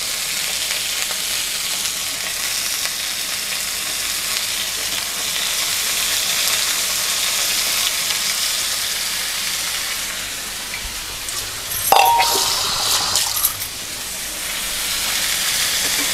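Raw chicken pieces sizzling in hot oil and onion-tomato masala in a nonstick pan as a spatula turns them, just after going in. About twelve seconds in, a few sharp knocks and scrapes of the spatula against the pan.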